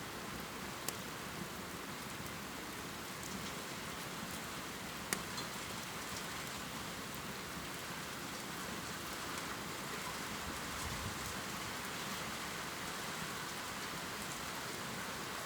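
Steady rain pouring, with a few sharper drip ticks, about a second in and again about five seconds in.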